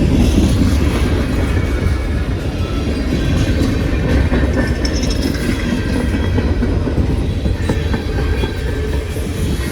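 Train cars rolling past on the rails close by, a loud, steady rumble of wheels on track.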